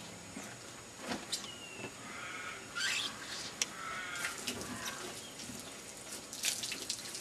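Water spraying from a hose and splashing on a car body, a steady hiss with a few short high chirps over it.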